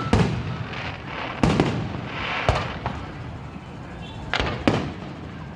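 Aerial firework shells bursting at a public display: a series of sharp booms, about six in a few seconds, some close together.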